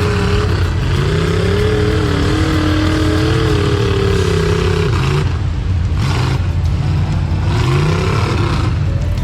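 A truck engine revving hard for several seconds, its pitch wavering up and down over a heavy low rumble. It eases off about five seconds in, then climbs again briefly near the end.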